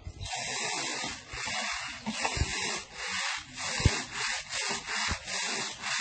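A bird cage being scrubbed during washing: repeated rasping back-and-forth strokes, about two a second, coming quicker in the middle.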